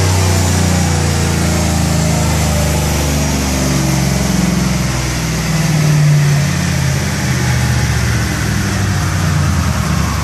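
Truck engine running on a chassis dyno, its pitch shifting up and down, with a short swell in speed about six seconds in before it settles back.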